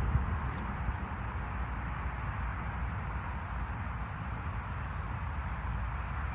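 Steady outdoor background rumble and hiss, with no distinct bangs.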